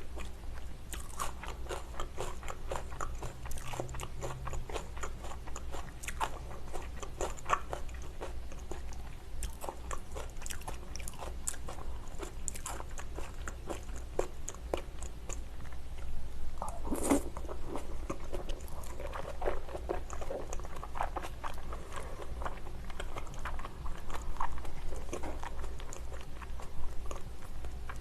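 Close-miked mouth sounds of a person eating salmon sashimi, sushi rice and salad: steady chewing and biting with many small wet clicks and crunches, and a louder bite about 17 seconds in.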